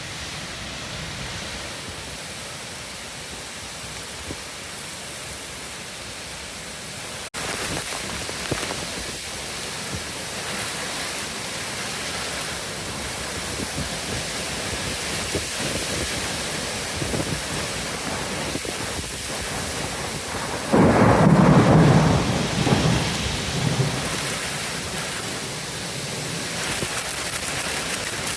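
Heavy rain and wind of a severe thunderstorm, a steady rushing that grows louder about seven seconds in. About three quarters of the way through comes a loud, low burst lasting a couple of seconds.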